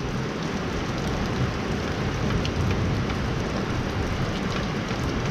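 Rain falling on the garage roof: a steady hiss with scattered faint drop ticks.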